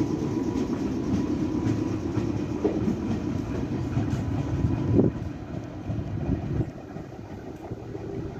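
Meitetsu 6800-series and 6000-series electric train running past, wheels clacking over rail joints, then fading away after about five seconds as it leaves.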